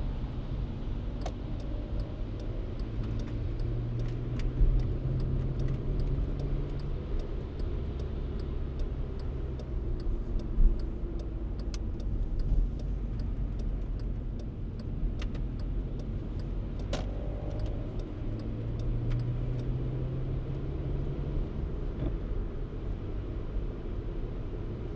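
Car driving, with a steady low rumble of engine and road noise; a low engine note swells twice, and faint light clicks are scattered through it.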